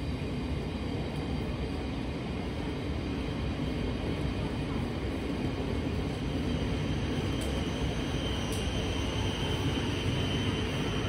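Thameslink Class 700 electric multiple unit rolling slowly through the station, a steady rumble of wheels on track that grows slightly louder, with a faint high whine coming in about two-thirds of the way through.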